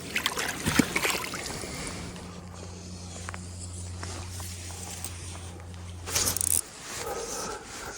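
Water sloshing and splashing while a hooked trout is played on a fly line. A steady low hum sounds through the middle, and a short burst of splashing comes near the end.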